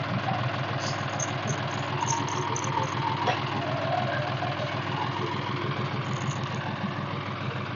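Tractor diesel engine idling steadily, with an even pulsing throb.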